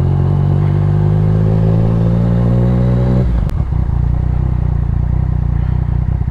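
Motorcycle engine pulling under throttle, its pitch rising slowly, then the throttle closes about three seconds in with a sharp click, and the engine runs on at a lower, steady note.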